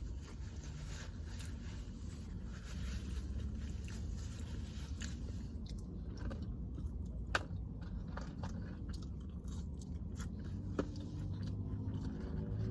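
Close-up chewing and biting into a saucy fried-chicken sandwich, wet smacking and light crunch, with a few sharp clicks.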